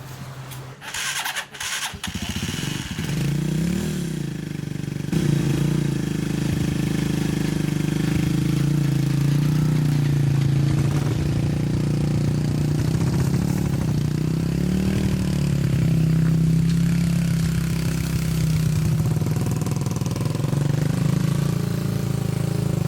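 An engine starting after a few clicks, then running steadily, its pitch rising and falling slightly.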